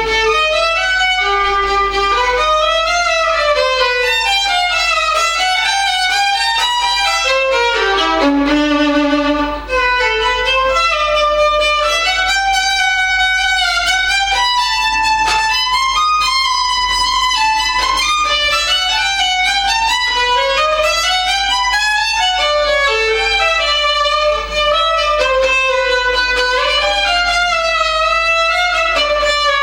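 Solo violin playing fast running passages that climb and fall in quick scales, with a short low held note about eight seconds in.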